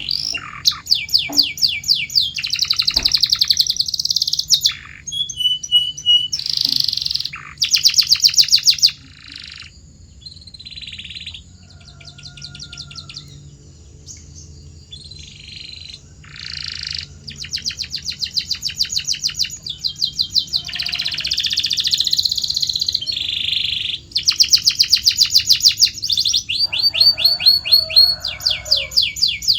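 Domestic canary singing: fast trills and rolls of rapidly repeated high notes, phrase after phrase at changing pitches, with a quieter stretch of softer, sparser notes partway through.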